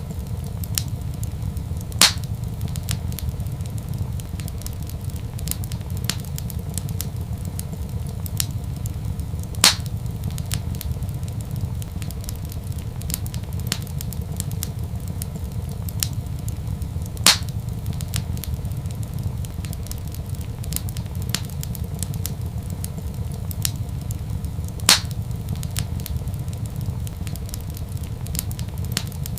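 Wood fire crackling in a fireplace: many small ticks and four louder sharp pops at evenly spaced intervals about seven and a half seconds apart, over a steady low rumble.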